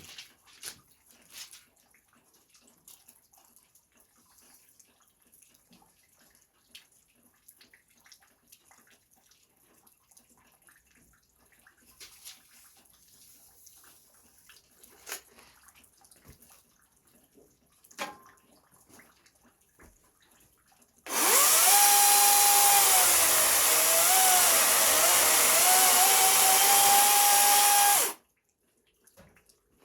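An electric power tool's motor runs for about seven seconds: a loud whine that drops and wavers as it takes load partway through, rises again, then cuts off abruptly. Before it, only faint scattered knocks and clicks.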